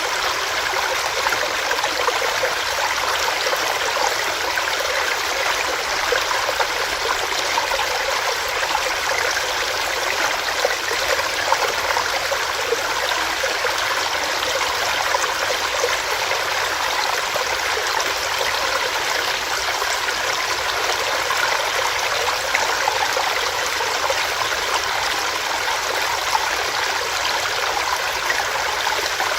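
Small rocky stream running steadily over stones, a constant rushing babble with fine splashing and trickling.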